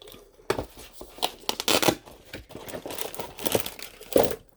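Crinkly packaging handled in irregular rustles and crackles while a small paper flower is picked out for the card.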